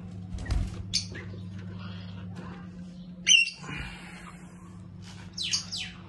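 Small caged pet birds chirping: a few short, sharp calls that fall in pitch. The loudest comes about three seconds in, and a quick run of chirps comes near the end.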